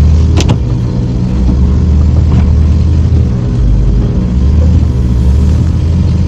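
Motor vehicle running with a loud, steady low engine and road rumble, with a few brief clicks or knocks near the start.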